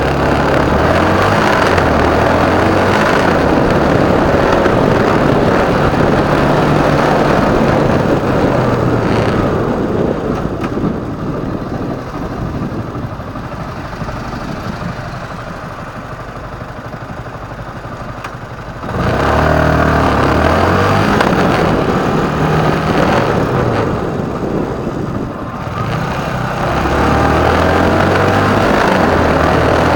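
Motorcycle engine running under wind and road noise, its note stepping up and down with gear changes. It drops back for several seconds in the middle, then picks up again sharply about two-thirds of the way in.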